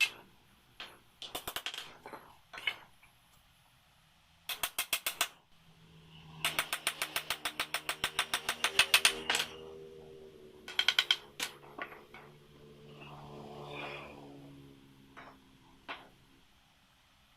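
Workshop tool noise: bursts of rapid sharp mechanical clicks, a short burst and then a longer run at about seven a second, over a faint low steady hum, with a few single clicks later.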